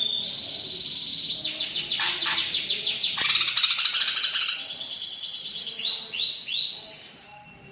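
Greater green leafbird (cucak ijo) singing a fast, varied song laced with imitations of other birds. A held high whistle gives way to rapid rattling trills, then three quick down-slurred notes about six seconds in, after which it goes faint.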